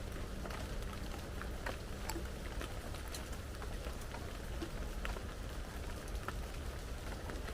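Rain falling steadily, with scattered individual drops ticking sharply close by.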